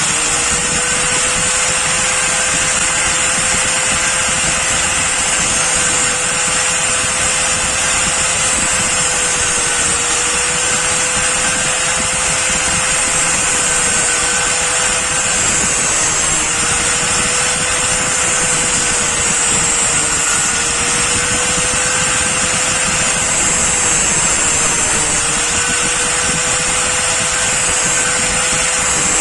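Electric grinder running steadily at high speed, a steady whine over a loud grinding hiss, its pitch sagging briefly a few times.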